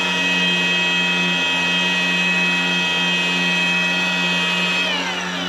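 Electric polisher with a buffing pad running at steady speed, working compound into fresh paint, with a steady motor whine. Near the end the whine falls in pitch as the machine winds down.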